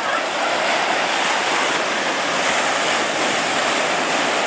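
Ocean surf: a steady, even rushing of breaking waves.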